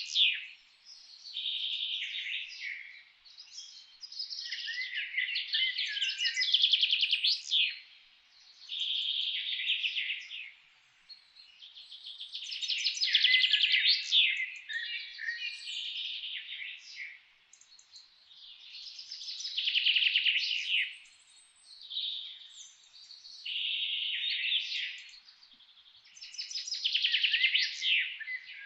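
Songbirds singing: phrases of quick high trills and chirps, each lasting a second or two, repeating every few seconds with short pauses between.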